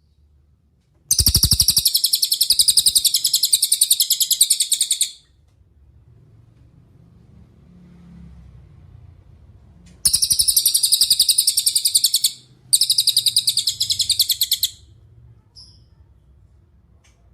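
A cililin songbird singing three long, fast trills of sharp, high, evenly repeated notes, each lasting two to four seconds. The first comes about a second in, and the other two follow close together later on.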